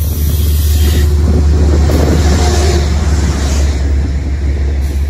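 Metro-North train led by locomotive 227 rolling past the platform close by: a loud, steady low rumble with wheel and rail noise that swells about a second in as the locomotive and coaches go by.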